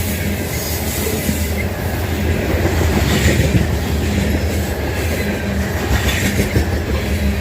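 Fully loaded grain train of covered hopper cars rolling past close by, its wheels running steadily over the rails.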